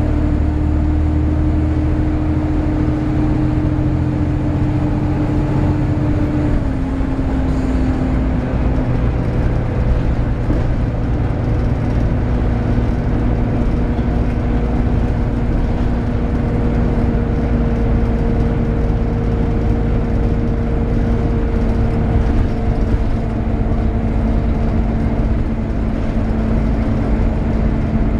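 Volvo B7TL double-decker bus running, its six-cylinder diesel rumbling under the loud hoover-like whine of its engine cooling fan. The whine steps lower in pitch about six seconds in and again a few seconds later.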